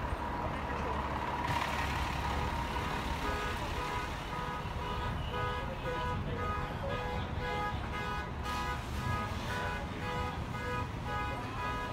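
Street noise with a vehicle engine running, and a repeating electronic beeping starting a few seconds in.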